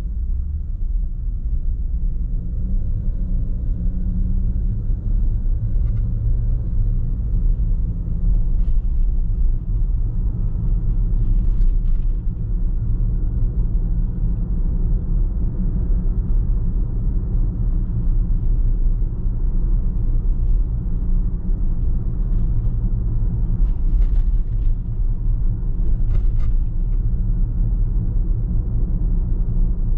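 A car driving along, giving a steady low rumble of road and engine noise.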